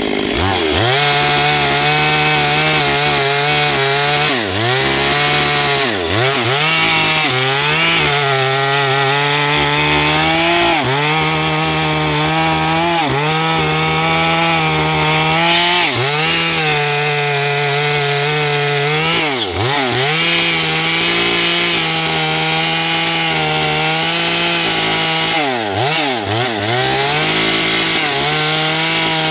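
Chainsaw running at high revs while cutting into a tree trunk. Its engine pitch sags and swings back up several times as it bites into the wood or is briefly throttled.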